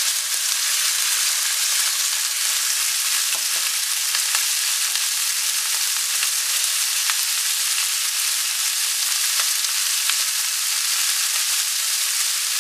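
Cubed chicken breast sizzling in very hot olive oil in a stainless steel sauté pan: a steady, loud hiss with a few faint scattered pops.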